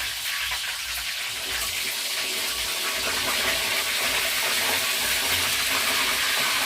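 Chicken pieces deep-frying in hot oil: a steady sizzle that slowly grows a little louder. The flame is set too high.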